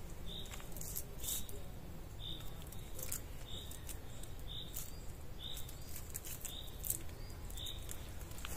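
A bird repeating a short high note about once a second, over soft rustling and small clicks of a cord being wrapped around a tree trunk and tied off.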